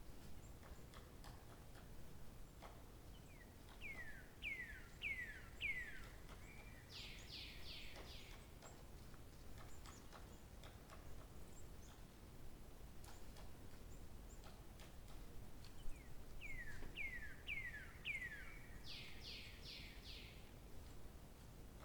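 A songbird singing the same short phrase twice, about twelve seconds apart: four quick downward-slurred whistles followed by a run of four brief, higher notes, over a faint low background hum.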